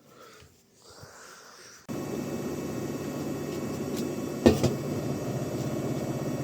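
Washing machine running with a steady hum, starting abruptly about two seconds in, with a single sharp knock about halfway through.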